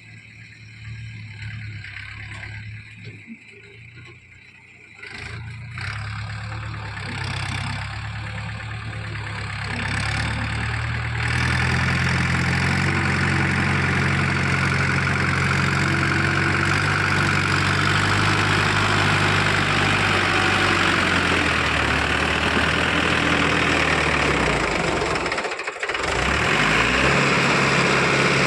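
Mahindra 475 XP tractor's diesel engine running, growing louder over the first ten seconds or so and then holding a loud, steady note, with a brief drop-out about 26 seconds in.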